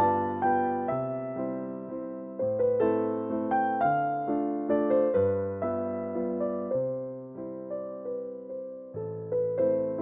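Gentle solo piano background music, single melody notes over slow-changing bass notes.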